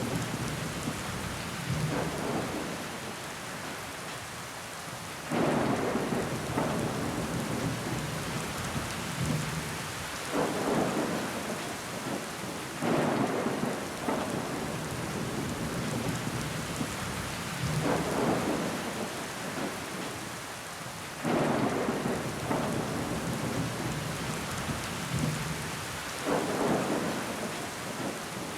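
Steady rain falling against a window pane. Every few seconds a heavier swell comes in suddenly and fades away.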